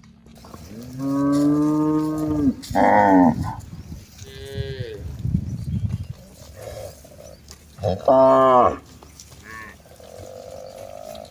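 Cattle mooing: a long low moo starting about a second in, a shorter, higher call right after it, and another loud moo about eight seconds in, with fainter calls between and near the end.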